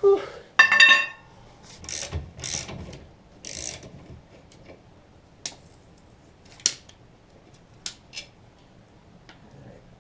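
Metal tools and car parts being handled: a loud metallic clang that rings briefly, then several scraping rasps and scattered sharp clinks.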